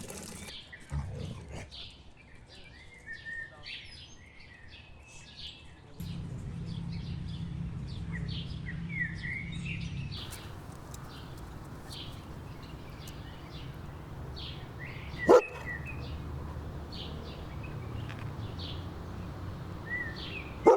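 Small birds chirp throughout. A golden retriever barks once, loudly, about three-quarters of the way through.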